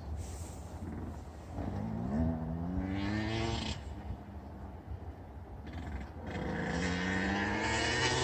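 2003 Yamaha YZ125's single-cylinder two-stroke engine revving up twice: the pitch climbs from about two seconds in, drops off, and climbs again from about six seconds in.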